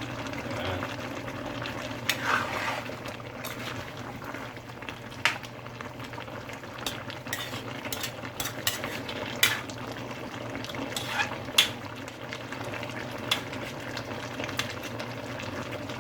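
A spoon stirring chicken curry in a pot, knocking and scraping against the pot a dozen or so times, over the steady bubbling of the simmering sauce.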